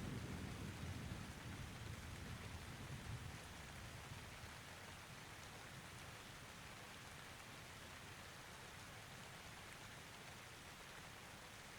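Steady rain falling, with the tail of a low thunder rumble dying away over the first few seconds.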